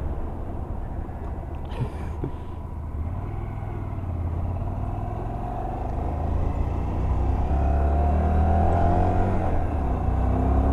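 Honda Varadero 125's V-twin engine running while riding, its note shifting with the throttle and climbing and getting louder in the second half. A brief click about two seconds in.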